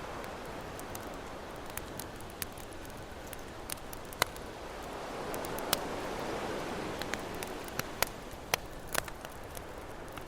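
Campfire crackling, with sharp pops scattered through it, over a steady wash of ocean surf that swells once in the middle as a wave rolls in.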